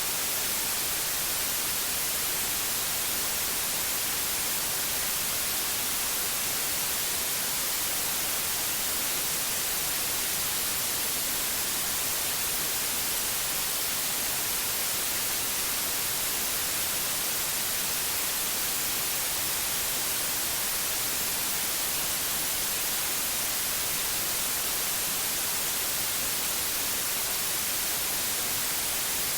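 Steady synthetic white noise: an even, unchanging hiss across the whole range, brightest in the high end.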